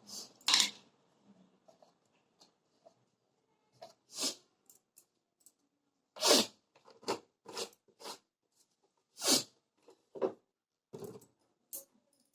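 Hot cooking oil in a pan spitting: a dozen or so short sputters and pops at irregular intervals.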